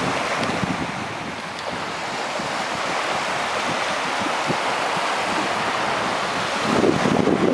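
Waves breaking and washing on a sandy beach, with wind buffeting the microphone. The sound grows louder near the end.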